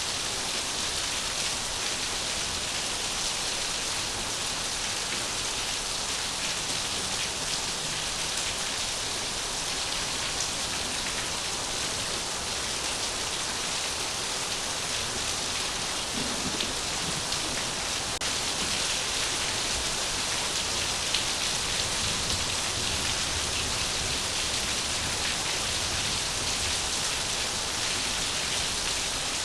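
Heavy rain falling steadily: a dense, even hiss of drops pattering on the ground.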